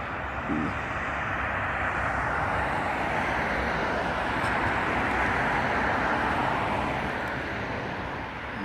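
A vehicle passing by: a steady rushing noise that swells to a peak around the middle and fades away near the end.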